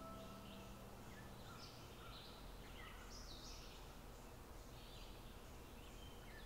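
Faint outdoor ambience with scattered short, high bird chirps, one every half second to a second.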